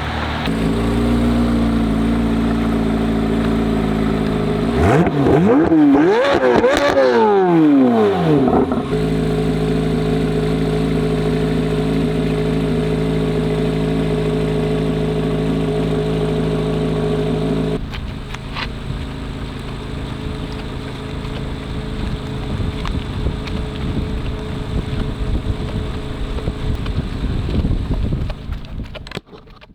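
C8 Corvette Z06's 5.5-litre flat-plane-crank V8 on track through an AWE exhaust. Its note sweeps up and down loudest about five to nine seconds in and falls in pitch as the car goes past, then holds steady. From about eighteen seconds in the sound is rougher and quieter.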